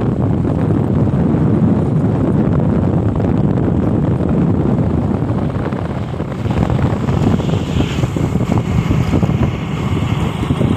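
Wind buffeting the microphone on a moving motorcycle, a dense rumbling rush with the bike's engine running beneath it. It dips briefly around the middle, then picks up again.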